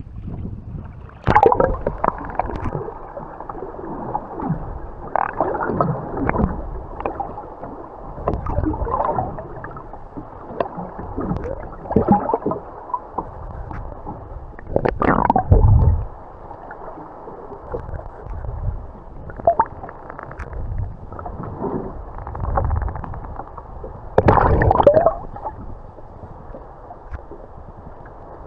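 Muffled knocks and rubbing over a steady low rumble, picked up by a camera set down in a small fishing boat at sea. There are three louder bumps, about a second in, near the middle and near the end.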